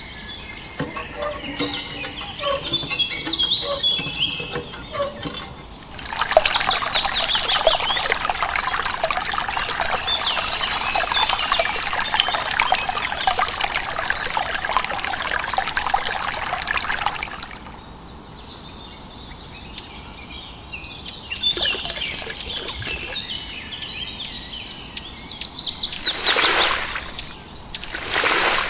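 Birds chirping throughout. Water pours steadily for about ten seconds in the middle, and there are two short gushes of water near the end.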